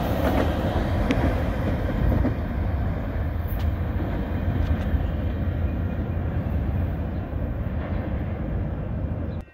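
A train running past on the tracks: a steady rumble of wheels on rail with a few faint clicks, slowly easing off, then cutting off suddenly near the end.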